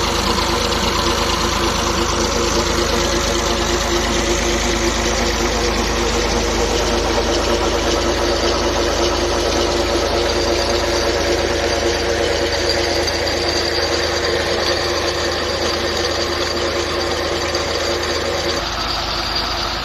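Tractor diesel engine running steadily, driving a tubewell pump, with a slight change in its low rumble near the end.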